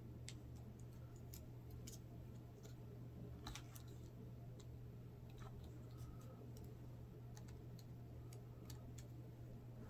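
Near silence with a steady low hum and scattered faint, small clicks from laptop parts being handled as the display ribbon cable is worked loose.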